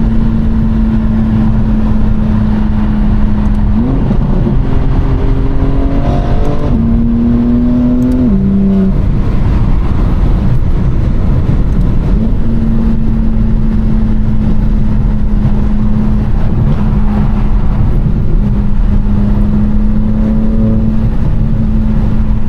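Car engine running as a steady drone, climbing in pitch in a few steps about four seconds in, dropping back near eight seconds, then settling to a steady drone again from about twelve seconds.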